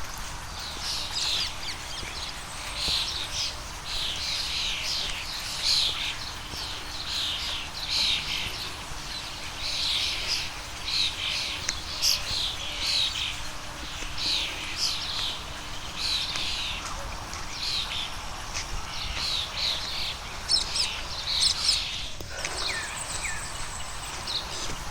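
Birds chirping continuously in quick, high, repeated notes, with a faint steady hum beneath for most of the stretch and an abrupt break about 22 seconds in.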